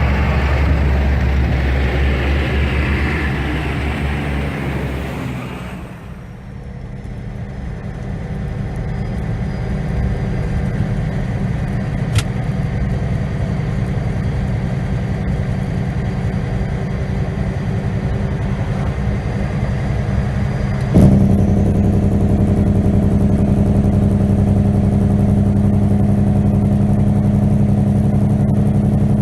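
Heavy truck's diesel engine running steadily, with road noise for the first few seconds. A sharp knock comes about 21 seconds in, after which the low engine hum is louder.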